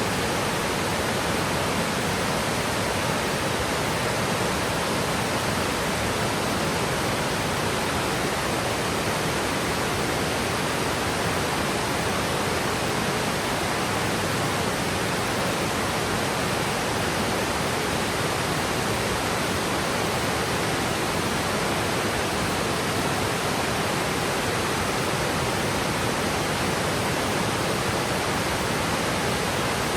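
Steady rushing roar of a large waterfall, Yudaki in Oku-Nikko, with water cascading down a 70 m rock slope. The sound is an even, unbroken hiss with no distinct splashes or other events.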